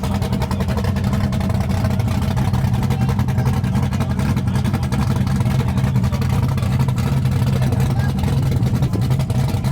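Car engine running steadily at idle, a low, even rumble that holds without revs.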